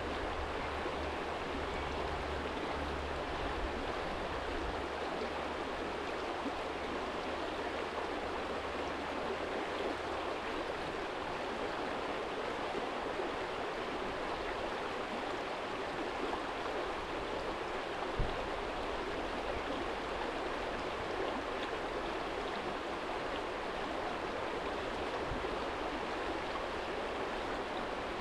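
Small stream flowing steadily over a stony bed, an even rushing of water. A low hum sits under it for roughly the first third and then fades, and there is a single brief click a little past halfway.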